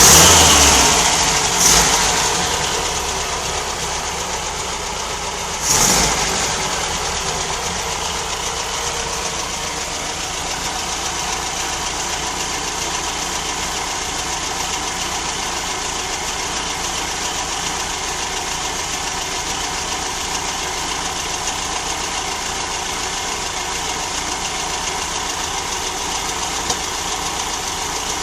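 VW Type 3 Notchback's 1600 air-cooled flat-four engine, revved briefly at the start and again about six seconds in, then idling steadily.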